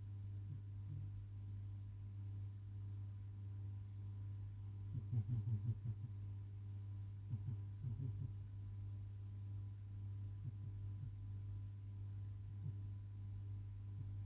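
A steady low hum, with a few brief clusters of faint, rapid muffled pulses about five and seven seconds in.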